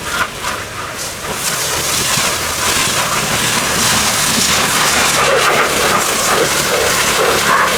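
Pressure washer spraying water onto a car, a steady hiss that settles in after about a second.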